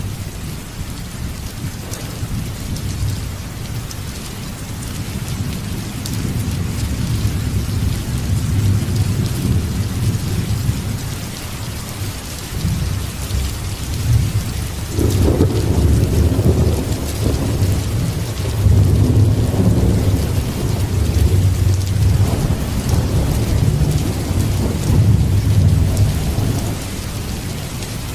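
Steady rain with rolling thunder: a low rumble that swells about halfway through and keeps rolling to the end.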